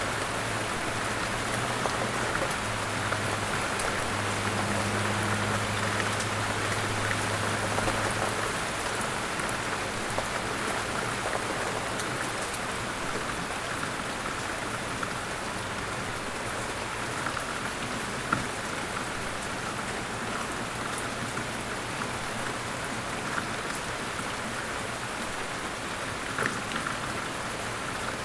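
Steady rain falling, an even hiss of drops. A low hum sits under it for the first eight seconds or so, and a few sharp ticks stand out, one in the middle and one near the end.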